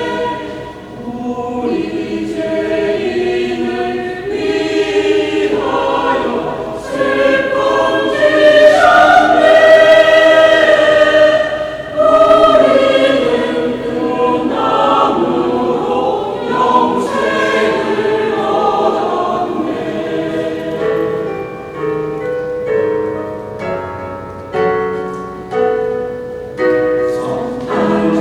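Mixed church choir singing a Christmas anthem with accompaniment, the voices swelling to their loudest about a third of the way in. In the second half the music moves in separately attacked chords, about one a second.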